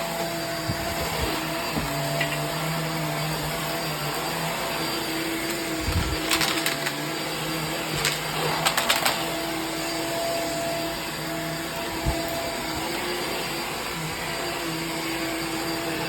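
Hoover React vacuum cleaner running steadily, its motor hum wavering slightly in pitch over the suction rush. Brief clattering bursts come twice, around six and nine seconds in, as debris from the mess test is sucked up.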